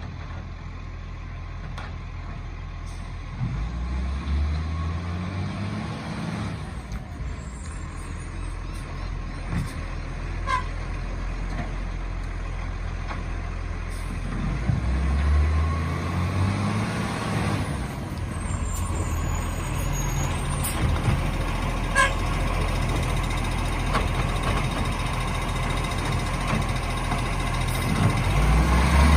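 Garbage truck's diesel engine running and revving up three times, with short hisses and high beeps in between.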